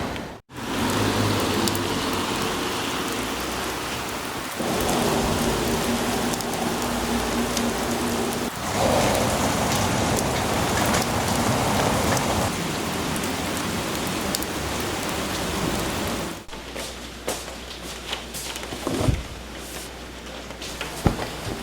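Steady rain falling, heard as a dense hiss, in several short clips that cut in and out abruptly. In the last few seconds it is quieter, with scattered drips and taps.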